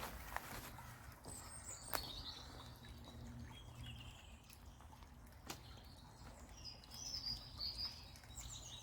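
Faint songbirds chirping and warbling in short phrases over a low steady background rumble, with a few sharp clicks.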